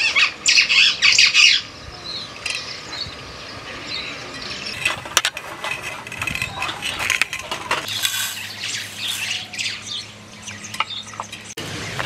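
Birds chirping and squawking, loudest and densest in the first second and a half, then scattered calls and small clicks, with a faint steady low hum in the last few seconds.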